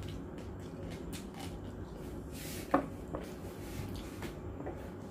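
Close mouth sounds of a person chewing roast pork, with faint clicks over a steady low background hum; one short, louder mouth sound stands out just under three seconds in.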